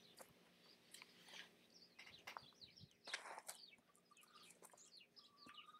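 Faint, scattered chirping of small birds, with a short rustle about three seconds in.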